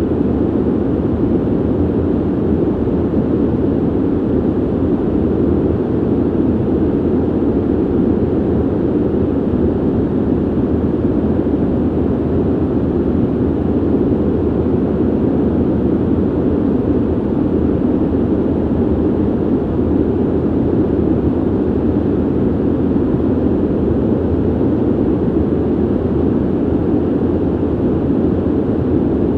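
Ventilation noise: a steady, low, even rush of air with no changes or events, its energy mostly low with little hiss on top.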